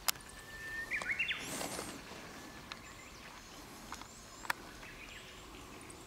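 A bird whistles one steady note for under a second, then breaks upward in a few quick higher notes. A short rustle of dry leaf litter follows, and a few sharp clicks sound, the loudest at the very start.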